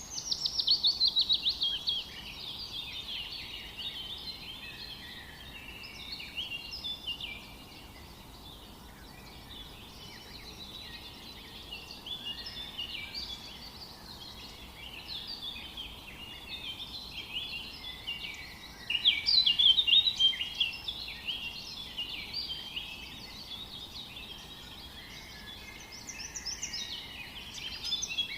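Several birds singing at once, a dense chorus of chirps and trills over a faint steady background hiss. Loud bursts of rapid, falling notes come just after the start, about two-thirds of the way through, and again near the end.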